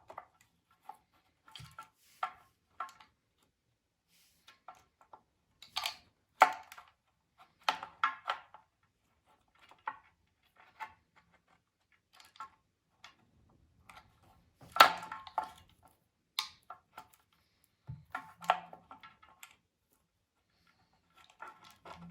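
Scattered clicks, taps and knocks of small tools and parts being handled at a workbench, at uneven intervals, with two louder knocks around six and fifteen seconds in.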